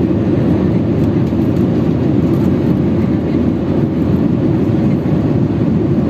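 Steady low rumble of engine and airflow noise inside the cabin of a Boeing 737-800 with CFM56-7B turbofans, running evenly.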